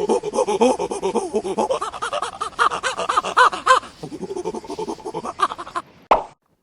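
Chimpanzee calls: a rapid run of hoots that rise and fall in pitch, climbing higher about halfway through, with a sharp final burst just before they cut off.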